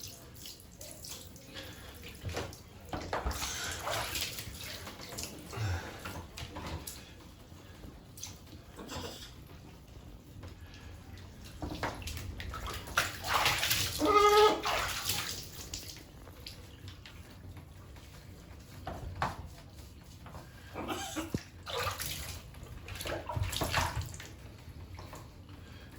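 Water splashing in a bathtub in irregular bursts while a pet parrot is being bathed, with a short pitched call about halfway through.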